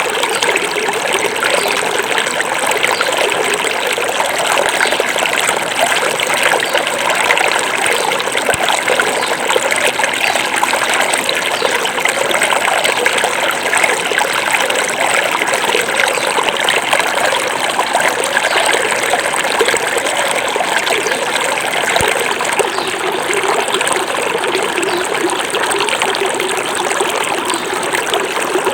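Small forest stream flowing steadily over stones, a continuous babbling rush of water.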